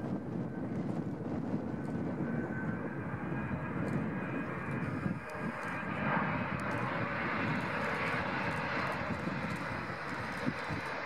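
Boeing 777-200ER jet airliner landing, its engines giving a steady rushing roar with a faint high whine. About six seconds in the noise grows brighter and fuller in the upper range.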